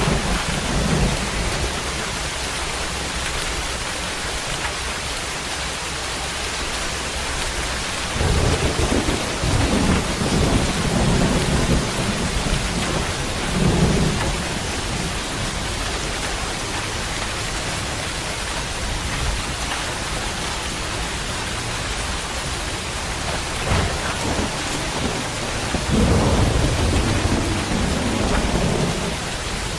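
Steady heavy rain with rolling thunder, which rumbles in three spells: right at the start, through the middle third, and again near the end.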